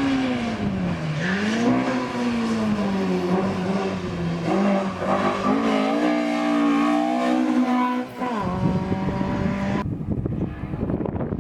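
Hillclimb race car engine revving hard through the gears, its pitch climbing and dropping back at each shift, with a brief lift-off about eight seconds in. Near the end the engine note cuts away sharply, leaving a low rushing rumble.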